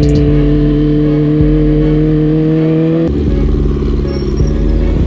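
2009 Kawasaki ZX-6R's inline-four engine running at low revs in gear, its pitch creeping slowly upward. About three seconds in the note drops suddenly to a lower, choppier, uneven sound.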